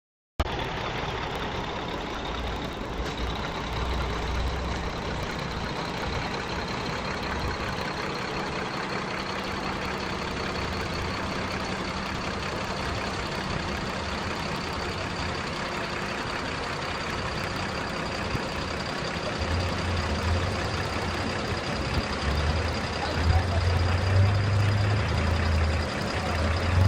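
Tow truck engine running steadily at idle, with a thin high whine that climbs slowly in pitch. A low rumble grows louder over the last several seconds.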